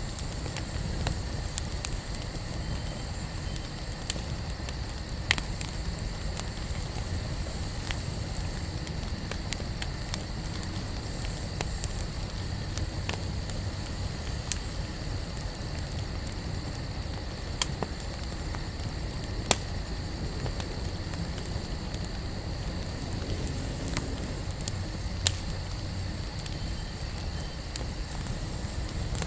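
Campfire burning, crackling steadily with sharp pops at irregular intervals every second or few, over a steady low rumble.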